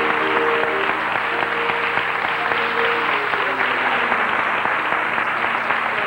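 Audience applauding, with held musical chords dying away in the first second.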